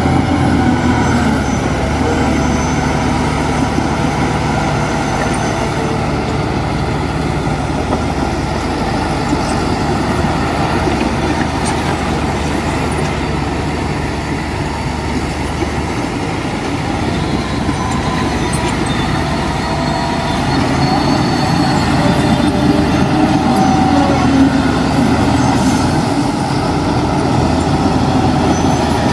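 Heavy diesel earthmoving machinery running steadily, its engine note shifting about halfway through and getting a little louder in the last third as it works harder.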